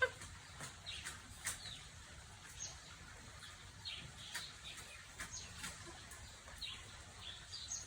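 Faint bird chirps: short, quick high notes that dip in pitch, scattered about once a second over a soft background hiss.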